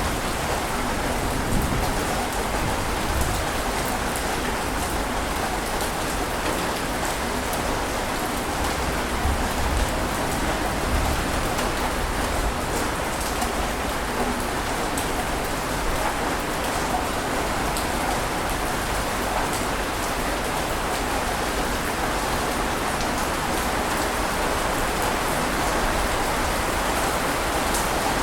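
Steady, dense rushing of water with no distinct wave surges, and a few brief low rumbles in the first half.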